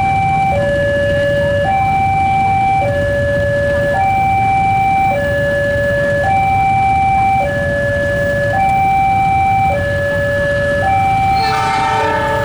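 Railway level-crossing warning alarm sounding, a two-tone signal switching between a higher and a lower pitch about every second, over a steady low rumble. Near the end a second horn-like chord briefly joins it.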